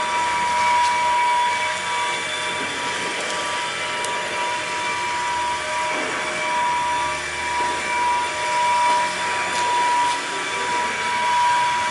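A steady machine drone with a constant high whine, with a few faint knocks.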